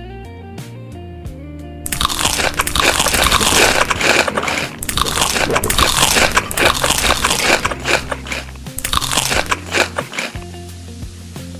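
Crisp food being bitten and chewed with loud crunching, starting about two seconds in and stopping near the end, over background music.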